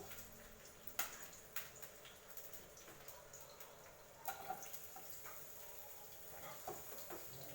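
Cooking sounds: a few light clicks and taps, like utensils against a pot, over a low steady hiss.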